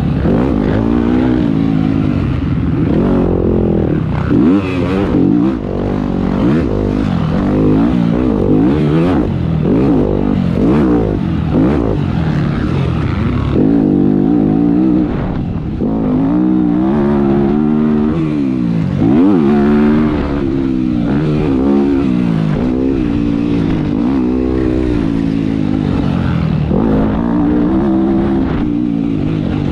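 Motocross bike engine being ridden hard, revving up and dropping off over and over as the rider works the throttle and shifts, its pitch climbing and falling every few seconds.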